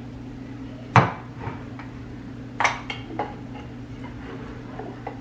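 Kitchenware being handled: dishes and pots knocked and set down on a counter, three sharp clinks over a steady low hum.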